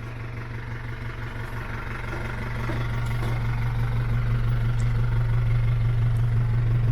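Isuzu 4BE1 four-cylinder diesel engine of a mini dump truck running steadily, growing louder over the first few seconds.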